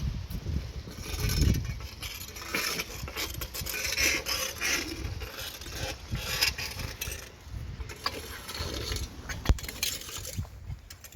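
Irregular scraping and clanking of a tool clearing debris out of a storm drain, with a sharp knock about nine and a half seconds in.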